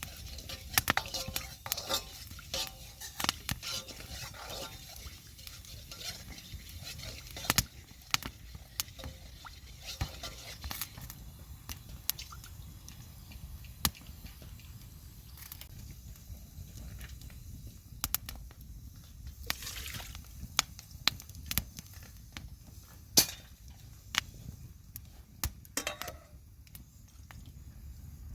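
Scattered clinks and knocks of cooking utensils and dishes being handled, irregular and sharp, over a low steady background rumble.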